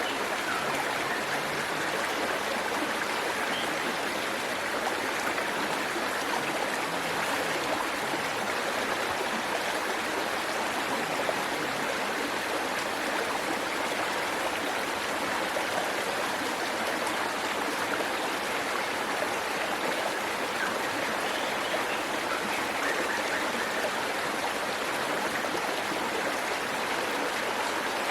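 Waterfall water rushing and splashing in a steady, unbroken flow.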